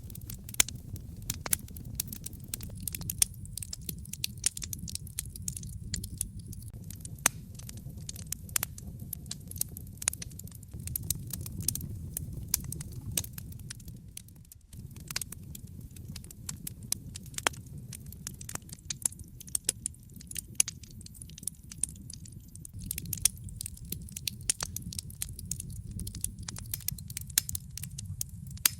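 Wood fire crackling in a fireplace: a steady low rumble of flames with frequent sharp pops and snaps, busier in some stretches than others.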